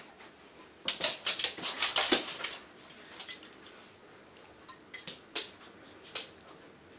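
A quick flurry of clicking and tapping on a hard floor from two dogs scrambling among dozens of scattered tennis balls, dense for a second or two, then thinning to scattered single taps.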